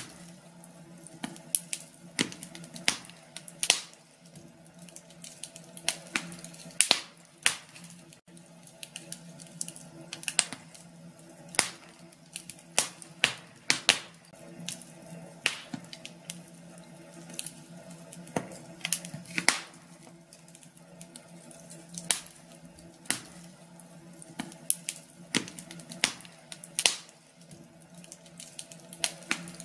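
Wood fire crackling in a fireplace: irregular sharp pops and snaps, several a second, over a steady low hiss.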